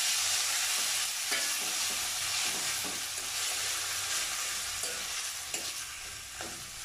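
Boiled taro leaves sizzling in hot mustard oil in a metal kadai, stirred with a metal spatula that scrapes the pan now and then. The sizzle slowly gets quieter.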